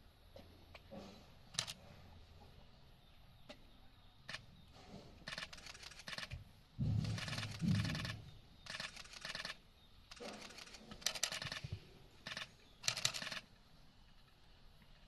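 Giant panda crunching and chewing a whole apple in short crackly bursts, one after another. A heavier low thud comes about seven seconds in, the loudest moment.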